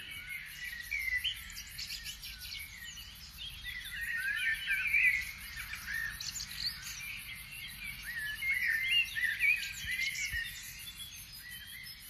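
Songbirds singing: many short chirping calls, overlapping, busiest about four seconds in and again around nine seconds.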